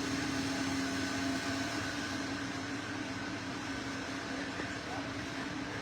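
Steady machine-like hum with a constant low tone and a faint higher whine over an even hiss, unchanging throughout.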